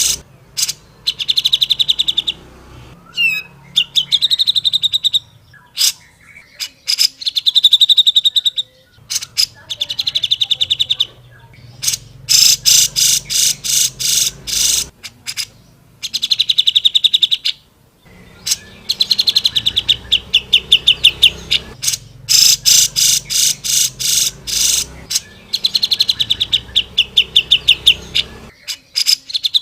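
Cucak jenggot (grey-cheeked bulbul) singing loudly: bursts of fast, rapidly repeated sharp chattering notes, each burst lasting a second or two, coming again and again with short pauses between them. A faint low hum lies underneath.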